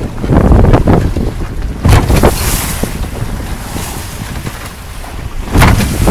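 Wind buffeting the microphone on a sailboat under way, over the wash of water along the boat. The wind surges sharply about two seconds in and again near the end.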